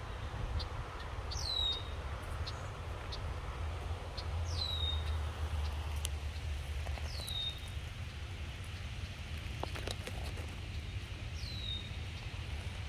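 A bird repeating a short call that slurs quickly down in pitch, four times a few seconds apart, with brief high chip notes between. A low steady rumble runs underneath.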